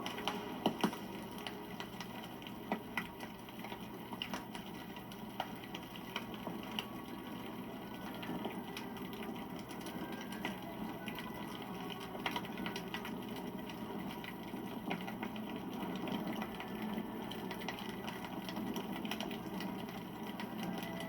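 Wood campfire burning: a steady low rush of flame with irregular sharp crackles and pops from the burning wood, the loudest pops about a second in.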